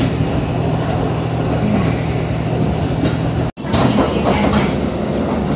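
Inside a diesel railcar under way: the engine drones steadily under wheel-on-rail rumble. About three and a half seconds in, the sound cuts out for an instant at an edit, and rougher wheel and rail noise follows.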